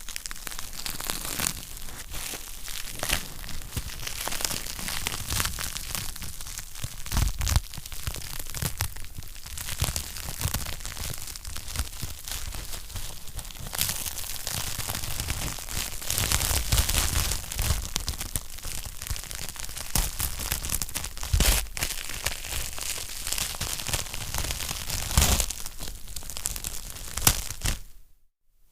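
Wood fire in a fireplace crackling continuously, with dense small pops and snaps over a hiss and a few louder pops. The sound cuts out briefly just before the end.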